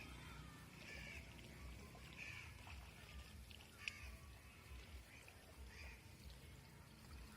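Quiet outdoor ambience: a bird calls faintly several times over a low rumble, with a single click about four seconds in.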